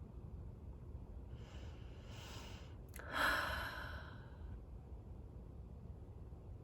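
A person breathing in and then letting out a sigh about three seconds in that fades away over a second or so.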